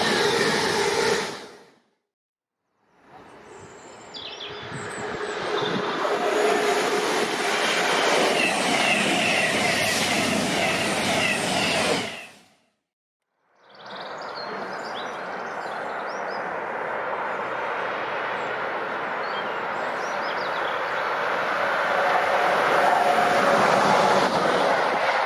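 Trains passing on the West Coast Main Line, heard as three short clips cut together: the steady rushing rumble of a train going by, broken by two abrupt silent cuts, the last clip slowly swelling louder as a train approaches. A few bird chirps sound faintly over the train noise.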